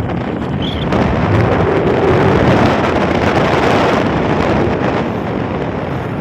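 Wind rushing over the microphone on top of a running vehicle, a loud, steady noise.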